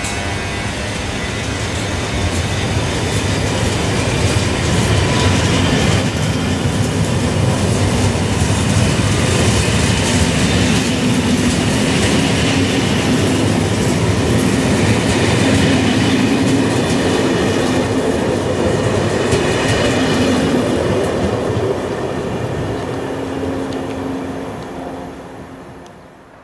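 TER Bourgogne passenger train of Corail coaches running through the station without stopping: a loud, steady rumble of wheels on rails, which fades away over the last few seconds as the end of the train goes by.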